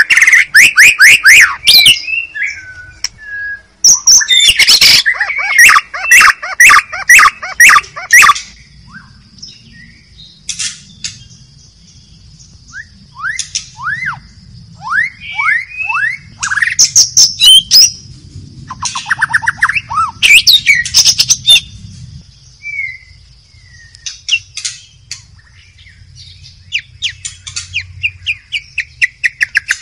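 White-rumped shama singing loud, varied phrases: fast runs of rapidly repeated notes broken by short falling whistles, with pauses between phrases.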